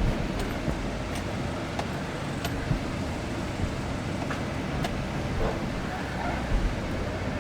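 A vehicle engine running steadily with a low rumble, with scattered sharp clicks and knocks over it.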